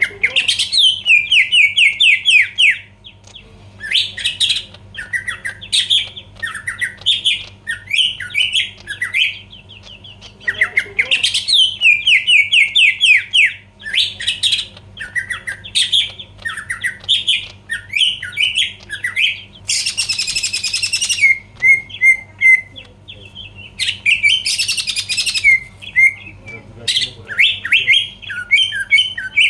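Cucak ijo (green leafbird) in full song: fast phrases of rapid downward-sliding whistled notes, with a harsh rasping burst twice in the later part.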